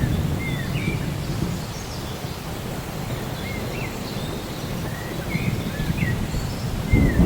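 Rainforest ambience: birds calling in short, quick chirps and whistled notes that slide up and down, over a low rumble of distant thunder that fades early and builds again near the end.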